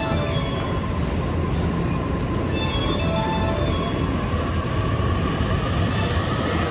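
An E233-3000 series electric train running past on the adjacent platform track with a steady rumble of wheels on rail. High squealing tones come from the wheels around the start and again about three seconds in. A faint, slowly rising whine sounds in the second half.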